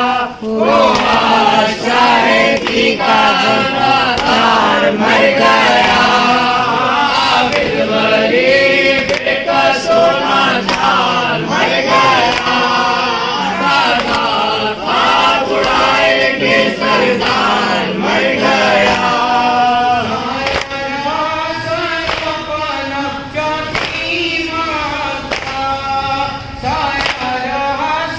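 A group of mourners sings an Urdu noha in unison, a lament for Imam Husain, carried by voices throughout. A steady beat of sharp slaps runs under the singing, typical of matam chest-beating.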